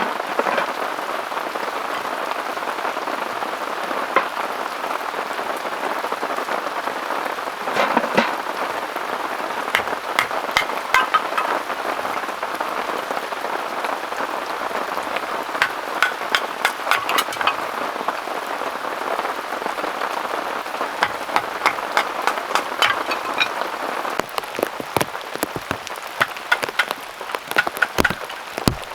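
Heavy rain falling steadily, with many sharp individual drops striking close by, thickest in clusters in the second half.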